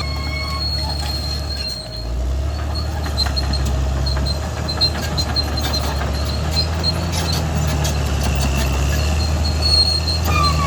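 Caterpillar D6R XL crawler bulldozer working: a steady diesel engine drone with high squealing from the steel tracks, which fades early, comes and goes in the middle and returns near the end. Clanks and cracks run throughout, and the engine dips briefly about two seconds in.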